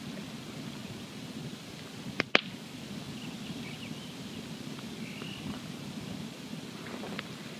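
Wood campfire burning: a steady low rush of flame with scattered small crackles, and one sharp, loud double pop a little over two seconds in.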